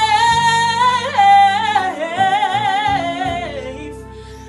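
Gospel singing: a solo voice holds a long note with wide vibrato, then drops and slides lower and fades. Sustained instrumental chords run underneath.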